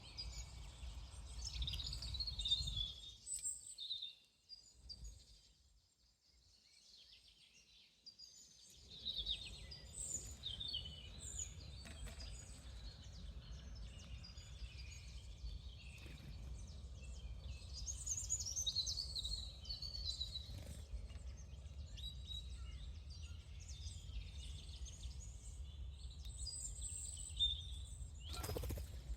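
Wild birds chirping and calling in short, repeated notes over a low background rumble that drops away for several seconds near the start. There is one sharp knock near the end.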